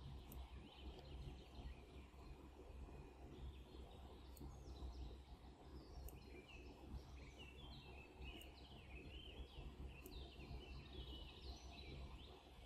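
Faint background sound: small birds chirping in many short falling calls, over a low steady hum, with a few faint clicks.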